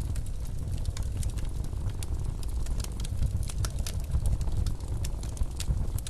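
Wood fire crackling in a fireplace, with irregular sharp snaps and pops, over a steady low rumble of blizzard wind.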